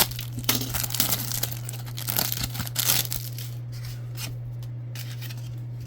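Foil trading-card pack wrapper being torn open and crinkled: a quick run of tearing and rustling for about three seconds that then dies down, over a steady low hum.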